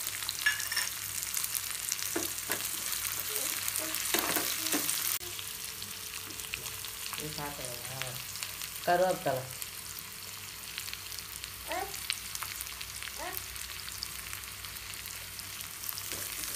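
Shallots, chillies, garlic and cumin sizzling in hot oil in a small pan while a metal spatula stirs and scrapes against the pan. A few short pitched sounds come through, the loudest about nine seconds in.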